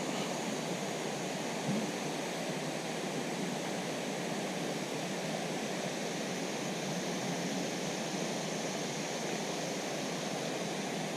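Steady, even rushing noise of running water and wind, such as water pouring over a lake spillway.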